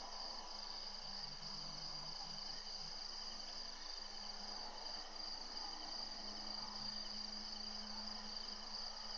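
Steady chorus of crickets and other insects, a continuous high-pitched trill.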